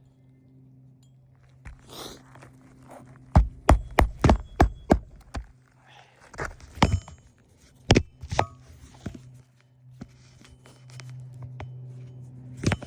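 Hammer blows on an asphalt shingle roof, a quick run of about six strikes a few seconds in, then a few scattered strikes, with scuffing between them.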